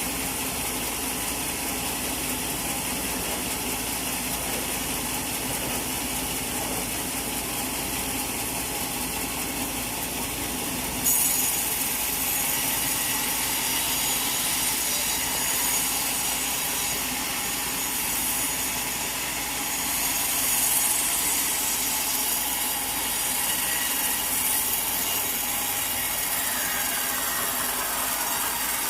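Sawmill saw running and cutting through a teak log: a steady mechanical noise that turns suddenly louder and hissier about a third of the way in, then carries on with a rasping sawing sound.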